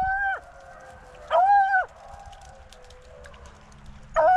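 A beagle baying in short, level-pitched howls of about half a second each: one ending just at the start, one at about a second and a half, and another beginning near the end. This is a hound giving mouth on a rabbit's scent trail, a sign that it may have picked up the track.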